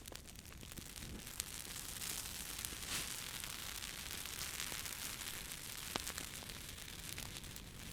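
Wood fire crackling: a steady hiss of burning with scattered sharp pops and snaps, a couple of them louder.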